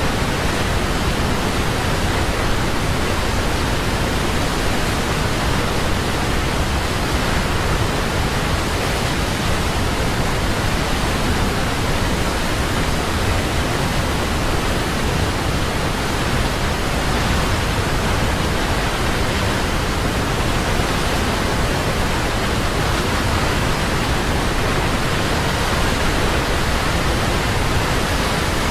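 Large waterfall: a steady, loud rush of falling water, unchanging throughout.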